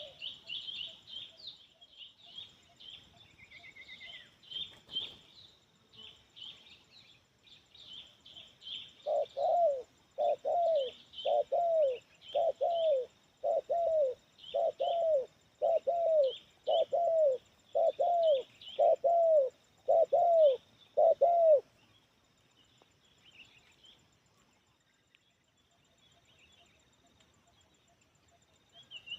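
Spotted dove (tekukur) cooing: a steady run of more than a dozen coos, each falling slightly in pitch and coming well under a second apart, starting about a third of the way in and stopping about two-thirds through. Small birds chirp faintly and high in the background throughout.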